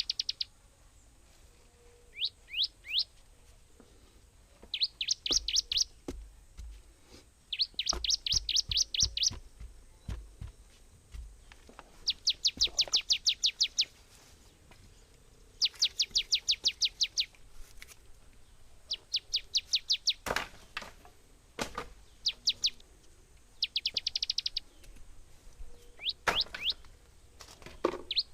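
A bird chirping in quick bursts of short, high, falling notes, about ten notes a second, each burst repeated every few seconds. A few sharp knocks come in the second half.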